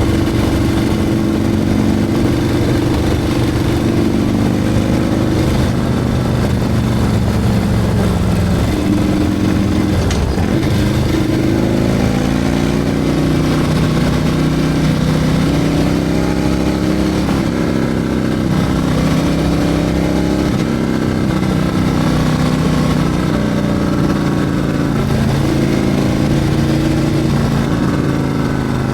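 Harley-Davidson Milwaukee-Eight 114 V-twin with a Screaming Eagle 447 torque cam running under way, its pitch stepping up and down with throttle and gear changes over steady wind and road noise.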